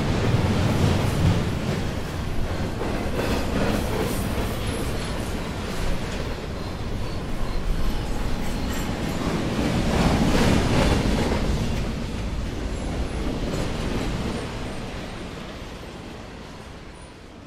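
A train running on the rails, getting louder about ten seconds in, then fading away over the last few seconds.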